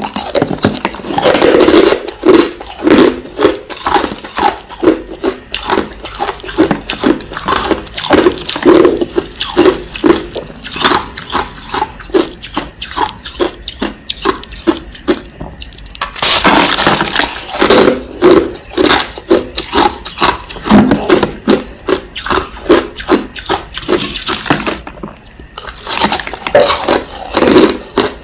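Crushed ice being chewed close to the microphone: loud, continuous crunching, several crunches a second, with a short pause about halfway through.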